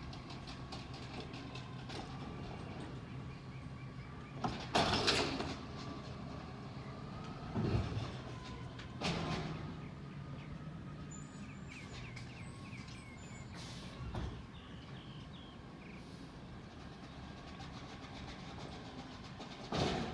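Peterbilt 320 garbage truck running steadily with a faint whine, broken by five loud, sudden bursts of hissing and clanking.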